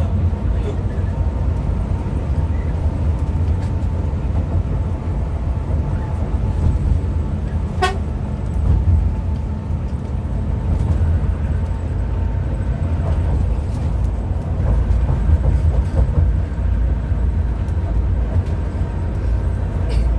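Steady low drone of a Hino RM 280 coach travelling on the road, with engine and tyre noise. About eight seconds in, a vehicle horn gives one short toot.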